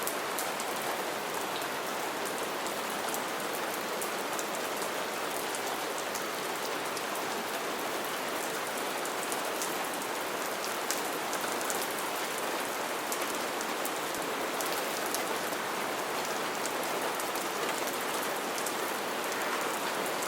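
Steady rain falling, a constant hiss with many fine drop ticks throughout.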